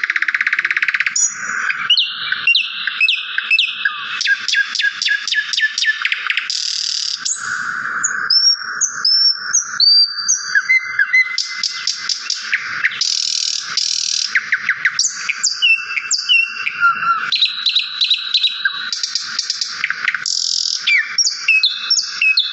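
Songbirds singing continuously in a varied run of rapid chirps, fast trills and short whistled notes, one phrase after another. The sound is thin and high, with no low end at all.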